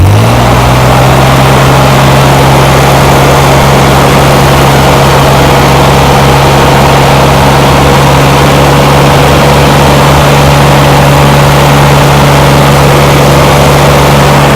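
Corvair 80 hp air-cooled flat-six engine running on its first start after a rebuild. It picks up speed just as the sound begins, then holds a steady raised speed.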